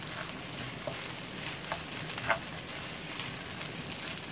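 Garlic fried rice sizzling steadily in a hot pan, with a few faint ticks.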